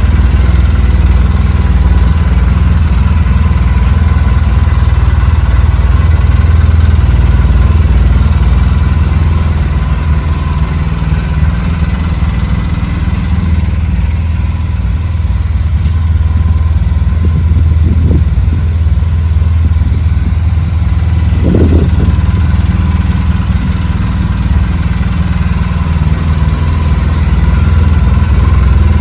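Quad (ATV) engine idling steadily after a cold start on months-old gas, with a brief rise in pitch a little past two-thirds of the way in.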